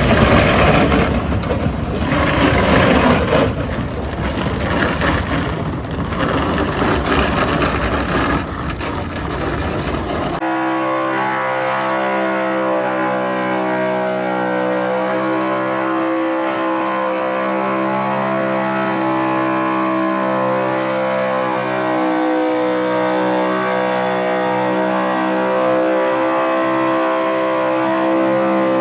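Race car engines running at the track. First a rough, gusty wash of engine and track noise. Then, after a sudden cut about ten seconds in, a steady, even multi-tone engine drone that drifts only slightly in pitch.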